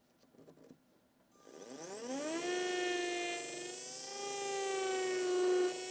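Dental implant motor's contra-angle handpiece spinning an implant drill. A few light handling clicks come first, then about one and a half seconds in a whine rises in pitch over about a second and holds steady.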